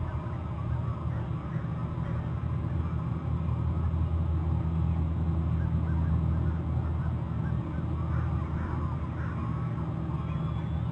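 Distant birds calling a few times, mostly in the second half, over a steady low rumble picked up by an outdoor webcam microphone.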